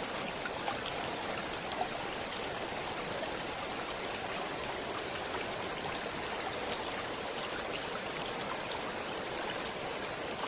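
Stream water flowing steadily: an even rushing with small splashes and drips scattered through it.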